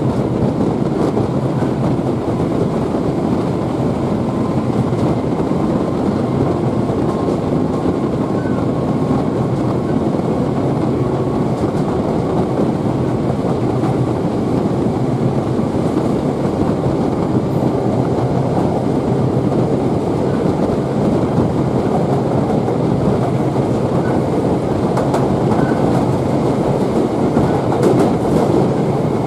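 Steady running noise of a passenger train heard from on board: the continuous rumble of wheels on the rails at speed.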